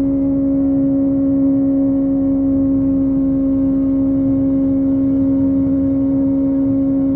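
Kawasaki ZX-25R's 250 cc inline-four engine through a Yoshimura exhaust, holding a steady high-rpm cruise, with wind rush underneath.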